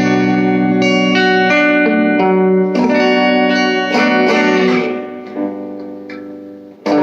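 Electric guitar played through an all-tube amp with the gain all the way up and the guitar's tone knob turned down, giving a clean sound with little fuzz. A phrase of notes and chords, the last chord left to ring and fade from about five seconds in before a new chord is struck at the end.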